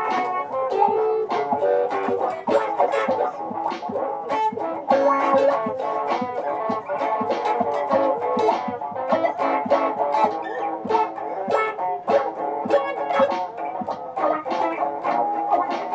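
Guitar played in a live looping setup: several looped parts layered over one another, a busy, continuous run of plucked notes.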